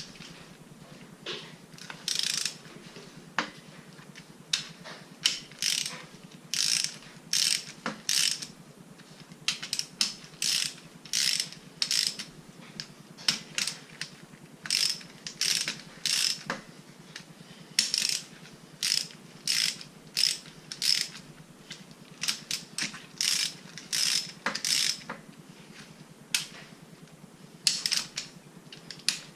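Hand ratchet wrench clicking in repeated short back-strokes, one to two a second with brief pauses, as bolts are run in on a Mazda 13B rotary engine.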